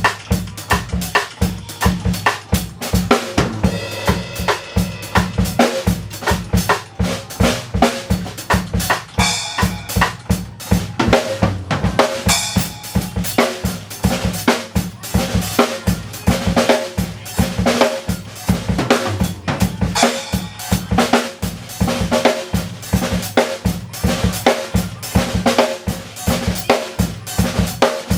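Drum kit played in a steady groove, with bass drum, snare and hi-hat, over a music backing track.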